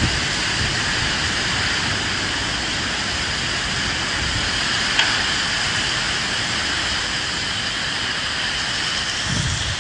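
Steady rain falling, an even hiss, with a single sharp tap about halfway through.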